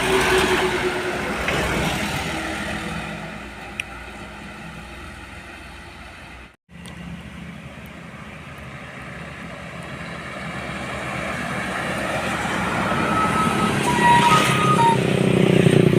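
Heavy truck engines passing on a road: one fades away, the sound cuts out for a moment, then another approaches and grows steadily louder, with a few short high tones near the end.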